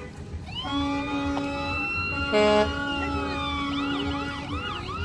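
Emergency vehicle siren sounding: a long wail that rises, holds and falls, then switches to a fast yelp of about three sweeps a second. A short horn blast sounds over it about two and a half seconds in, the loudest moment.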